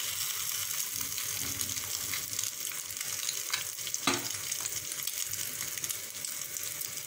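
Balls of egg-and-onion omelette mixture sizzling steadily in hot oil in a paniyaram pan. A wooden stick makes a few light taps as the balls are turned, the clearest about four seconds in.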